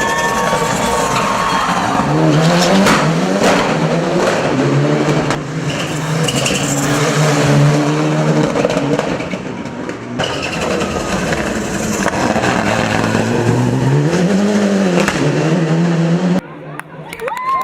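Built Mitsubishi Lancer Evolution VI hill-climb car's turbocharged four-cylinder engine revving hard, its pitch climbing and dropping over and over through gear changes, with tyres squealing at times. The sound breaks off abruptly a few times as passes are cut together.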